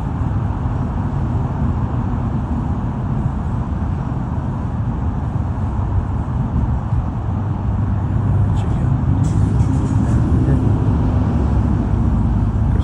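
Steady low engine rumble of a vehicle, growing louder about eight seconds in.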